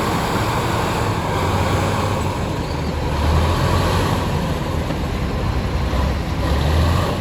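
Bulldozer's diesel engine running under load, its low rumble swelling a few times, around the middle and near the end.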